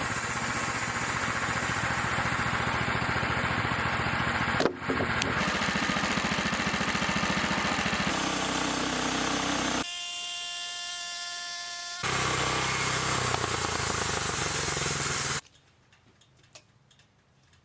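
Sawmill engine running under load as the mill saws through a log, a steady mechanical drone with abrupt changes. In the middle, a steady high whine with several pitches lasts about two seconds. The drone cuts off suddenly near the end, leaving only faint ticks.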